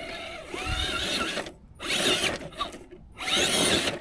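RC rock crawler's electric motor and geared drivetrain whining in three bursts as throttle is applied, the pitch rising and falling with each push, with short pauses between them.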